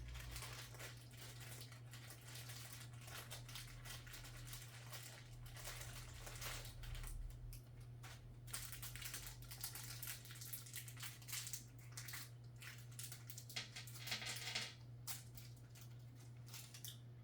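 Crinkling and rustling of a small plastic parts bag and light clicking of small metal screws as motherboard screws are picked out and handled, over a steady low hum.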